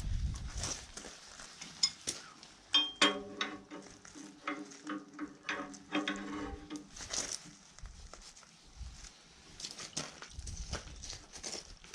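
Metal hand tools clinking and clanking, with scattered sharp knocks, as wrenches and sockets are handled and set against steel. Through the middle there is also a wavering pitched sound.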